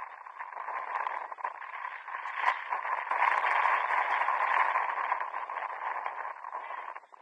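Indistinct shouting and voices on a football pitch, thin and muffled, swelling louder about halfway through and falling away near the end.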